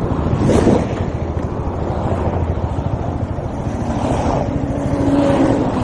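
A vehicle engine running, with wind rushing over the microphone; a faint steady tone sounds over it about four seconds in.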